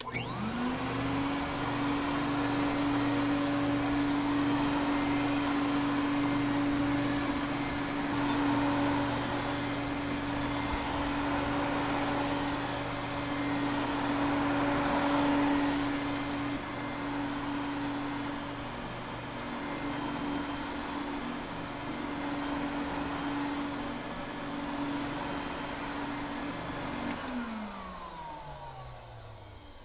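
Vacuum cleaner switched on, its motor whining up to speed in the first second. It then runs steadily with a rushing hum of air, and is switched off near the end, the motor's pitch falling as it spins down.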